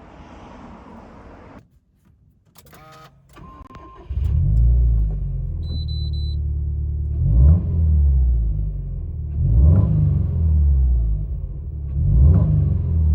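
Subaru WRX STI's turbocharged flat-four, fitted with an aftermarket muffler and sports catalytic converter, starts after a few clicks about four seconds in and settles into a loud idle. It is then blipped three times, with a short beep soon after the start.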